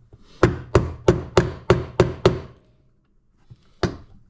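Hammer blows on a 9 mm socket driving the water pump bearing out of the Yamaha WR450F's clutch cover case: six sharp metallic strikes, about three a second, then a short pause and one more strike near the end.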